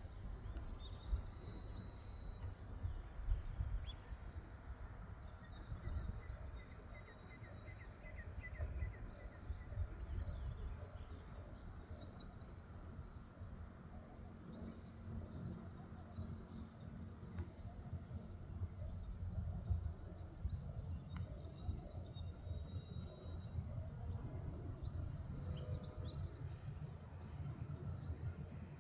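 Several small birds chirping in short, high calls, with a quick trill of repeated notes about six seconds in, over a steady low rumble.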